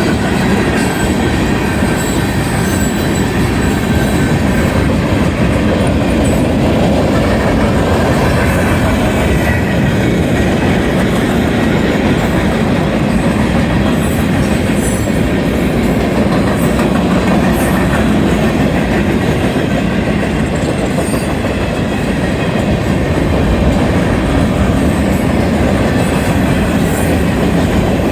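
Loaded freight train of tank cars rolling past at close range, the steel wheels running over the rails in a steady, loud rumble.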